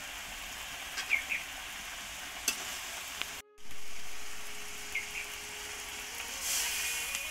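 Chopped vegetable stalks sizzling as they fry in oil in an aluminium karai, with a metal spatula clicking and scraping against the pan a few times. Near the end, water poured into the hot pan sets off a louder hiss.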